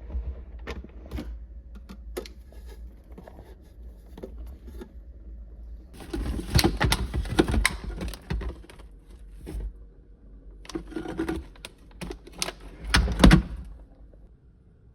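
Small clicks and knocks of objects being handled, with a busier stretch of rustling and clatter from about six to nine and a half seconds in.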